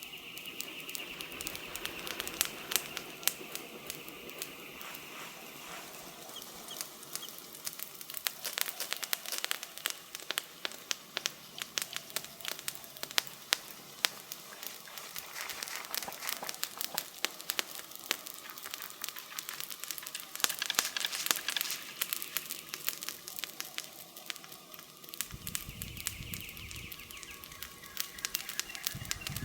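Wood campfire crackling, with dense irregular sharp pops from the burning logs. A low rumble comes in near the end.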